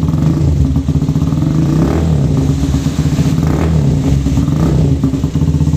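Benelli Motobi 200 Evo's single-cylinder four-stroke engine running through its exhaust, the revs rising and falling slightly a few times.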